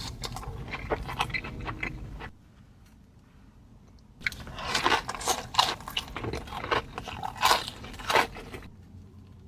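Close-miked chewing and crunching of food in a mukbang: a run of crisp bites and chews, a short lull about two seconds in, then a longer, louder run of crunchy bites.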